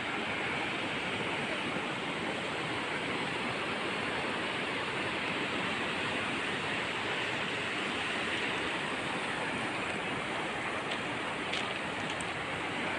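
Steady rushing of the Gabharu river running high in flood.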